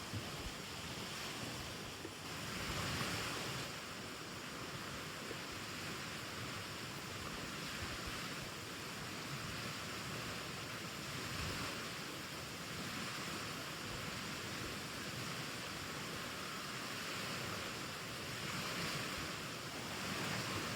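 Steady rushing outdoor noise that swells and fades every few seconds, with no distinct events.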